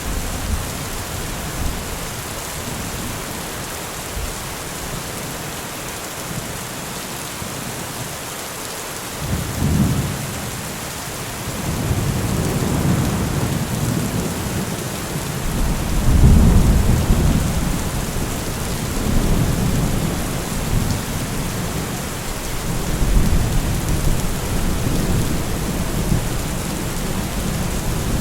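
Steady rain falling, with low rolls of thunder rumbling in about a third of the way through, the loudest roll just past the middle, then further rumbles near the end.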